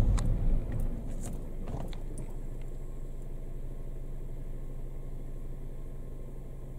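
Car engine running steadily with a low hum, heard from inside the cabin. A few knocks and clicks come in the first two seconds.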